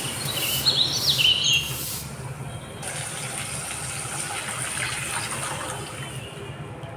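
Bird chirps, a few quick rising and falling calls in the first second and a half, over a steady background hiss and low hum.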